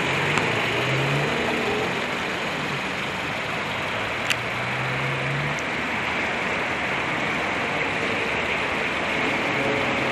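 A 2013 Chery Tiggo's 1.6-litre inline-four engine idling steadily, with a single sharp click about four seconds in.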